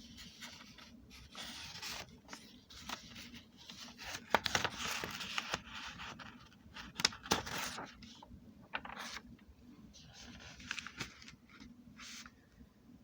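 Rustling and scraping handling noises, with a few sharp clicks about four seconds in and again around seven seconds.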